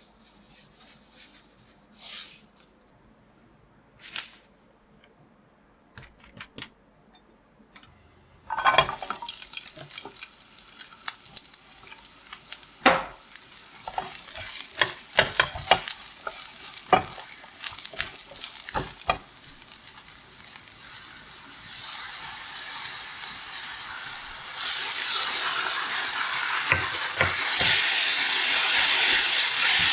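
Food frying in a pan. A few light kitchenware clicks come first; about eight seconds in, food hits the hot pan and starts to sizzle, with a utensil clicking and scraping against the pan as it is stirred. Near the end the sizzle swells into a loud, steady hiss.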